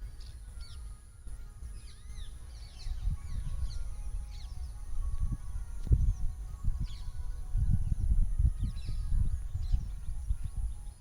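Birds chirping, many short calls scattered through, over a low, uneven rumble that surges and fades and is louder in the second half.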